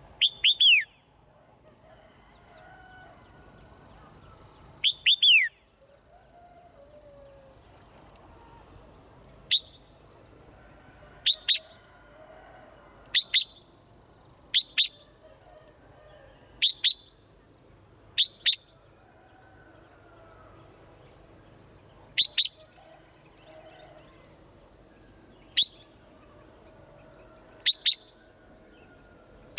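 Swallow giving short, sharp chirps that sweep downward in pitch. A quick run of several comes at the start and another about five seconds in, then single or paired chirps follow every couple of seconds.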